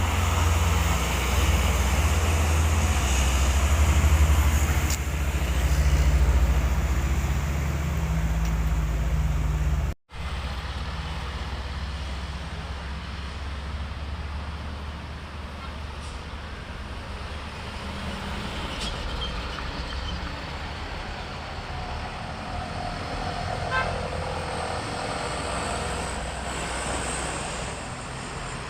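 A heavily loaded truck's diesel engine labouring loudly under load, a deep steady drone. About ten seconds in it cuts off abruptly, followed by quieter road traffic noise.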